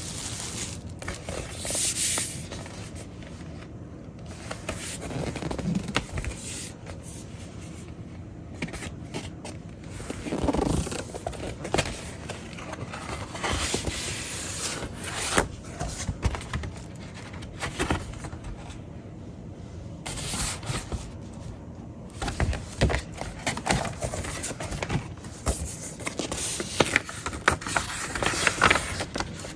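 Hands handling a vinyl record and its packaging: paper and cardboard sleeves scraping and rubbing, with scattered clicks, taps and crinkles.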